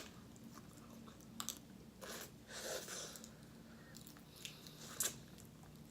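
Close-miked eating sounds: quiet chewing and biting, with a few short clicks and a slightly louder stretch about two to three seconds in.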